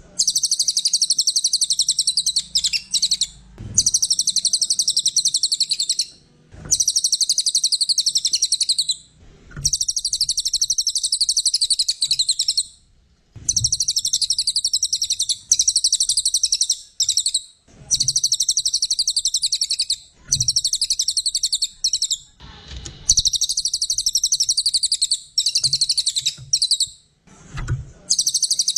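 Cililin songbird singing in full song ('gacor'): bouts of loud, rapid, high-pitched trilling chatter, each lasting a few seconds, repeated about eight times with brief pauses between them.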